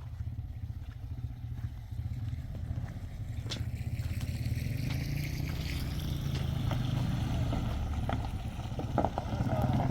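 An engine running steadily, growing louder from about four seconds in, with scattered knocks and clatter over it.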